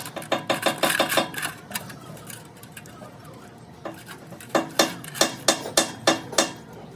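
Metal being struck repeatedly with a hammer during gearbox repair work. Quick light taps come first, then after a short lull about eight harder blows land at roughly three a second.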